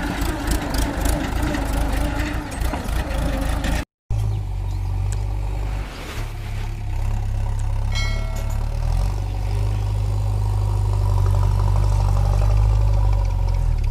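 Mahindra 575 DI tractor's four-cylinder diesel engine running under the load of a fully loaded trolley, a heavy, steady low rumble. The sound cuts out briefly about four seconds in, and a short high tone sounds about eight seconds in.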